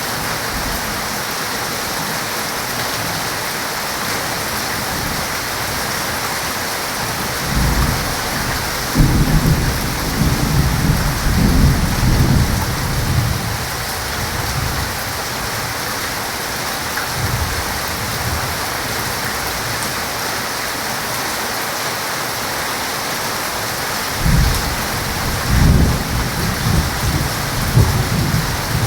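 Heavy rain falling steadily, with rolls of thunder rumbling low twice: one from about 8 seconds lasting several seconds, and another starting near the end.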